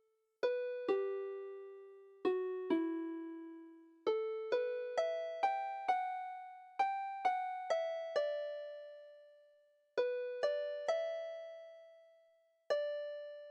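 A kalimba plays a slow, gentle melody one note at a time. Each tine is plucked and left to ring out. The notes come in short phrases of two to five, with pauses of a second or more in which the last note fades away.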